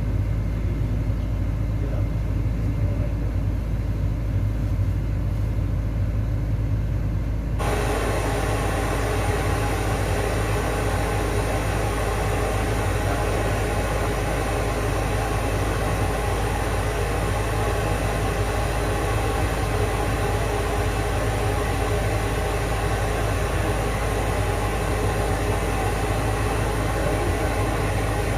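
Steady deep hum and rumble. About seven and a half seconds in, a steady hiss switches on suddenly and runs on over it.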